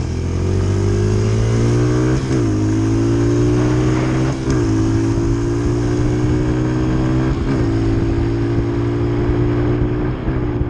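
Dirt bike engine pulling through the gears while riding. Its pitch climbs, then drops sharply as it upshifts about two seconds in, again a little before halfway, and a third time about seven seconds in, with a brief dip near the end.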